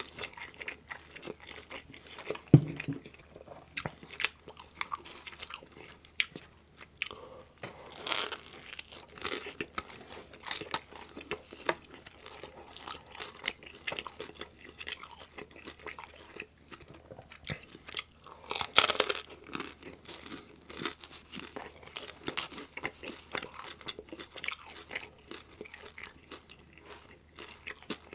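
Close-miked chewing and biting of meat-topped pizza: irregular wet mouth smacks and crunches of the crust, with a few louder bites about a third of the way in and two-thirds of the way through.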